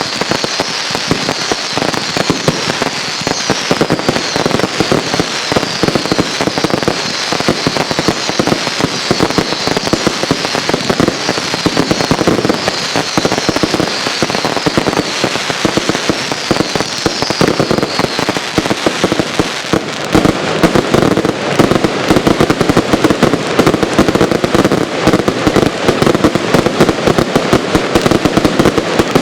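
Consumer fireworks cakes firing in rapid succession: dense shots and crackling, with a run of repeated falling whistles over the first half. From about two-thirds of the way in, the barrage gets louder and denser.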